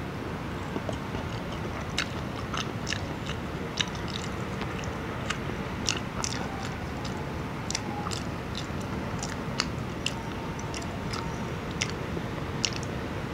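Close-miked chewing of a fried quail egg: irregular wet clicks and lip smacks over a steady low background hum.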